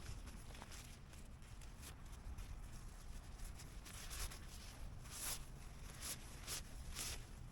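Rustling and brushing of tent fabric and camping gear being handled and packed away, with several short swishes in the second half.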